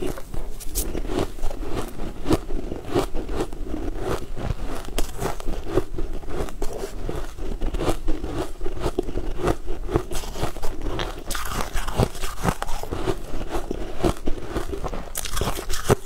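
Close-miked chewing of crumb-coated cake: a steady, irregular run of small crunches and clicks from the mouth.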